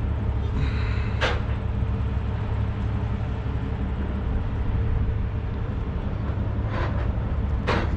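Diesel truck engine idling steadily, with a few sharp clanks about a second in and twice near the end.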